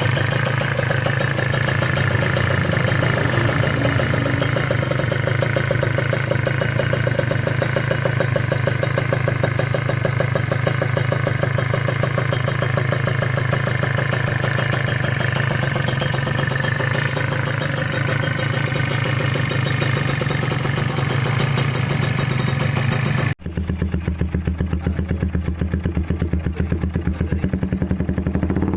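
Single-cylinder motorcycle running at idle through an aftermarket SXperformance exhaust, a steady even pulsing. About 23 seconds in, the sound cuts off abruptly to another idling exhaust, duller and deeper in tone.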